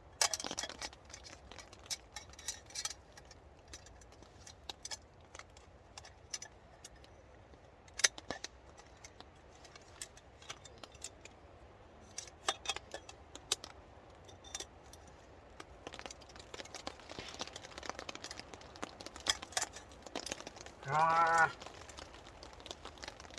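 Folding camp table being assembled: scattered clicks, clinks and knocks as its metal legs and frame parts are handled and clipped together, with quieter stretches between.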